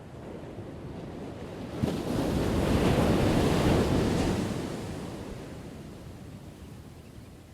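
Ocean wave crashing on the shore: the surf builds, breaks with a sudden rush about two seconds in, then washes out and fades slowly.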